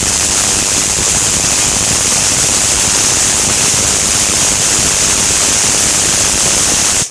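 High-voltage arc from a variac-fed transformer burning on a pane of glass: a loud, steady, hissing noise, strongest in the treble, that cuts off suddenly right at the end. The arc is melting a hole straight through the 4–5 mm glass.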